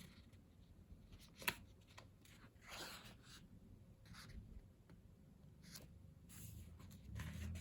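Quiet paper handling: faint rustles and soft swishes of photobook pages or photo prints being turned and moved, with one sharp click about a second and a half in.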